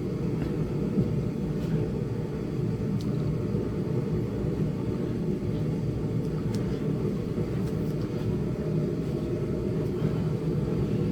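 Steady low rumble of background noise with a faint hum, broken by a few faint ticks.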